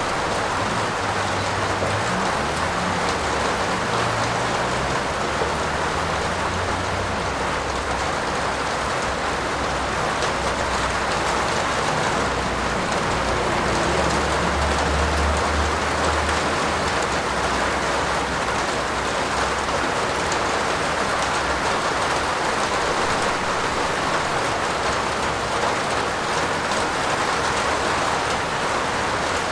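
Heavy rain falling steadily, an even hiss. A low rumble swells a few times underneath, strongest about halfway through.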